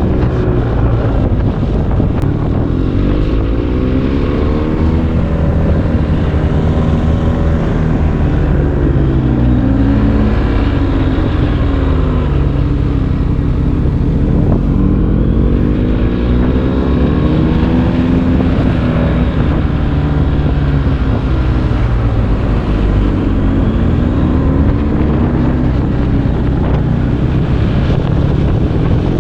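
BMW R 1250 GS's 1254 cc boxer-twin engine through an Akrapovic exhaust, its pitch climbing and dropping again and again as the rider accelerates and eases off, with wind rushing over the microphone.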